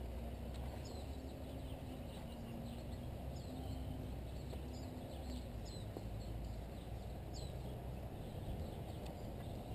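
Birds chirping, short falling calls roughly once a second, over a low steady rumble.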